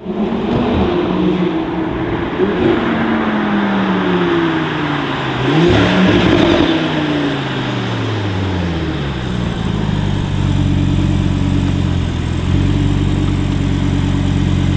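Tuned Audi RS3 8V's 2.5-litre five-cylinder engine, through a full Armytrix exhaust, driving past. It is loudest about six seconds in, with its pitch falling throughout, then settles into a steady engine note from about ten seconds in.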